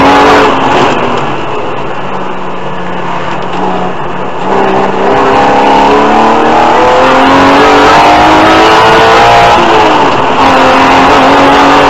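BMW E36 325i rally car's straight-six engine, heard from inside the cabin. The driver eases off about half a second in, then accelerates hard with the engine pitch climbing for several seconds. The revs dip briefly for a gear change near the end and then pull on at high revs.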